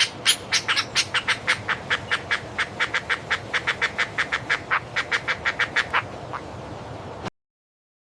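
An animal calling in a fast, even series of short, sharp calls, about five a second, that stops about six seconds in.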